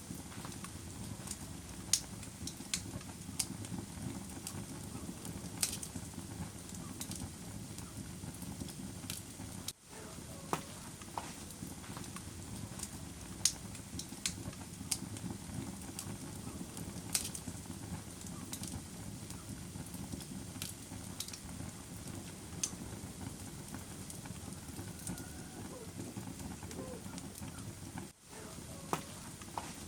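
Wood fire in a fireplace crackling, with frequent sharp pops and snaps over a steady low rumble of the flames. The sound cuts out for an instant about ten seconds in and again near the end.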